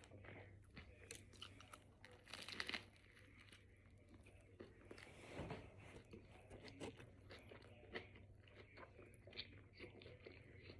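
Close-miked chewing and biting of a steak and cheese sub with lettuce, spinach and onions: soft, wet mouth sounds and crunches. There is a louder crunchy bite about two seconds in and another near the middle.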